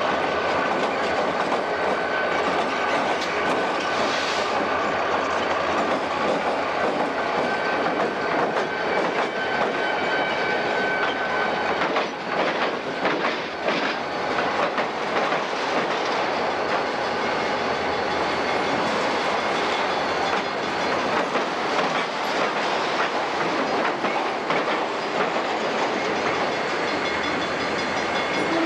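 Diesel freight trains led by six-axle diesel locomotives passing close by: a steady, loud rumble of locomotive engines and rolling wheels. About twelve seconds in there is a run of sharp clacks as wheels cross rail joints.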